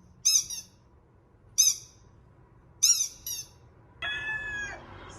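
Test sounds from a dog head-tilt video: four short, high-pitched squeaky chirps, two of them close together. About four seconds in comes a longer, steadier high call.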